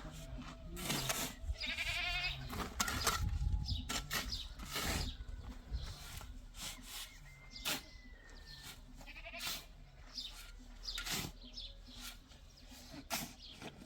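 Goats bleating, with a long wavering bleat about two seconds in and fainter calls later, among scattered sharp knocks.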